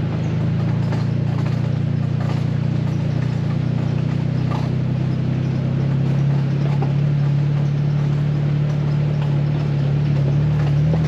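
Jeep Wrangler engine running at a steady, low drone while driving, with scattered faint clicks and knocks from the rough road.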